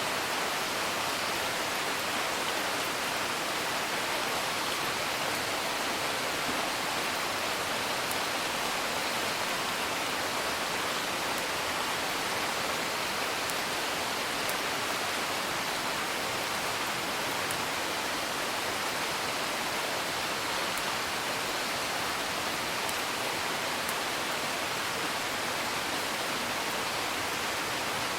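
Steady, even rain hiss with a fire crackling faintly, a few sharp pops every few seconds.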